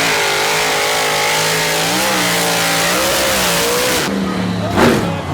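A monster truck engine revving hard and held at high revs, its pitch wavering. It drops off about four seconds in and is followed by a quick blip of the throttle near the end.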